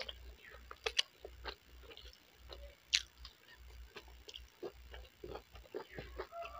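Close-miked mouth sounds of a person biting and chewing food: wet smacks and crackles, with sharp crunches about one second and three seconds in.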